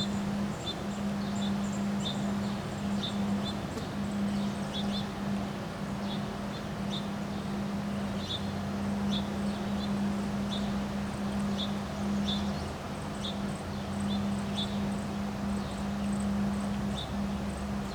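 Wind blowing, with a steady low hum under it and short high-pitched chirps recurring irregularly, a little over one a second.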